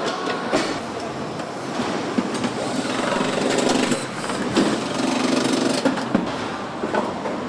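Assembly-plant machinery running, with clatter, clicks and droning hums from the tools and equipment on the line.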